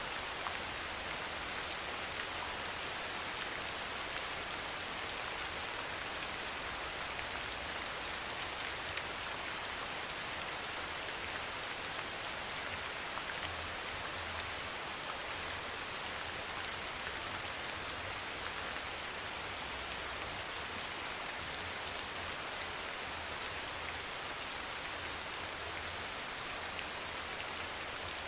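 Steady soft rain falling: an even hiss with scattered individual drop taps.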